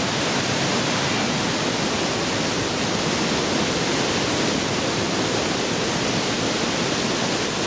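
The Pailón del Diablo, a waterfall about 80 metres high, thundering down into a narrow gorge: a steady, dense roar of falling water with no letup.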